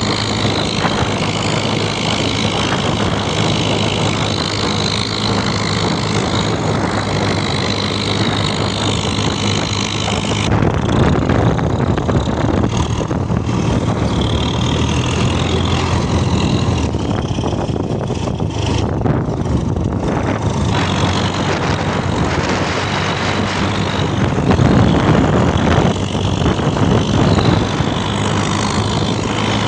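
Tractor engine running steadily, a low even drone with a few short swells in loudness.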